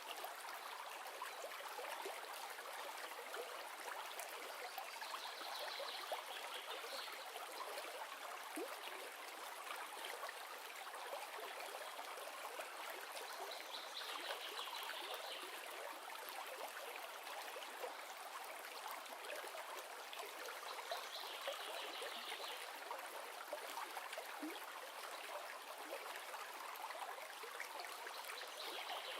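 Recorded river sound: the steady rushing and trickling of flowing stream water. A slightly brighter hiss swells briefly about every seven to eight seconds.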